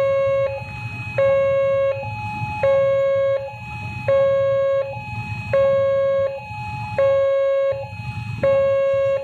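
Railway level-crossing warning alarm sounding ahead of an arriving train: an electronic two-tone signal alternating evenly between a loud lower tone and a higher one, about one cycle every second and a half, over a low rumble.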